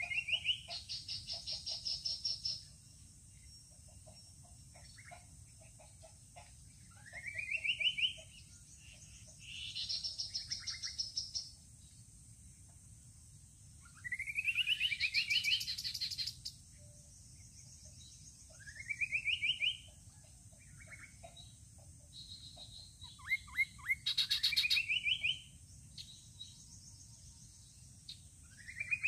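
Babbler song: phrases repeated every few seconds, each a short rising whistled note that runs into a fast trill of high notes.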